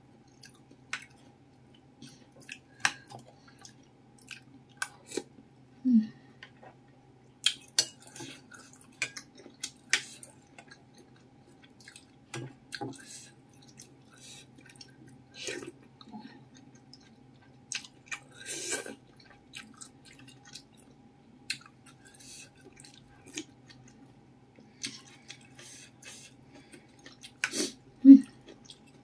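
Close-up eating sounds: chewing and wet mouth noises of meatballs and noodles in soup, with scattered small clicks of a metal spoon in a ceramic bowl, over a faint steady hum.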